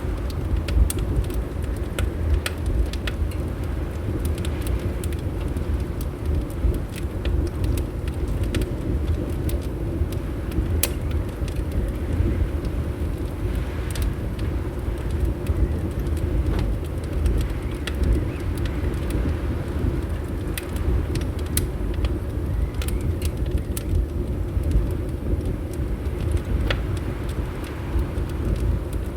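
Wood fire crackling in a fireplace, with scattered sharp pops and snaps, a few a second, over a steady low rumble of winter wind.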